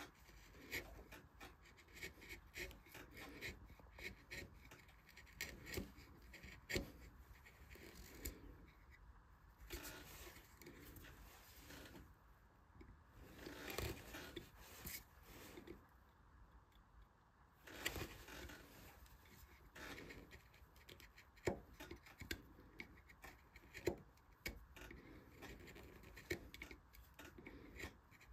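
Hand carving tools cutting into wood: many short, irregular scraping and clicking strokes.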